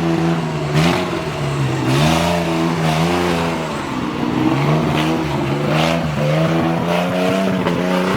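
Off-road 4x4 engine revving, its pitch holding steady and then dipping and climbing again every second or two as the throttle is worked.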